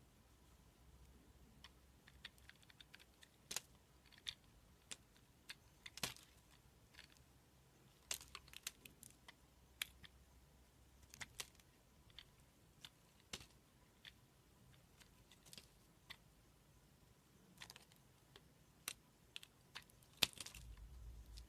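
Slime being handled, giving scattered sharp clicks and pops, irregular and sometimes in quick clusters, over a faint hiss.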